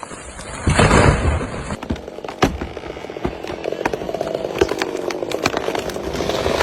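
Chainsaw running and cutting wood, starting loud under a second in, with many sharp cracks and knocks through the cut.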